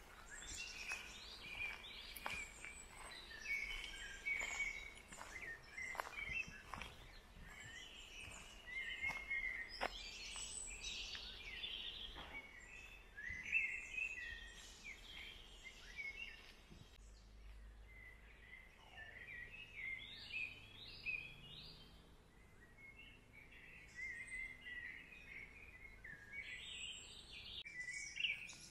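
Several small birds chirping and singing in park trees. In the first half there are regular footsteps crunching on a gravel path, about one to two a second.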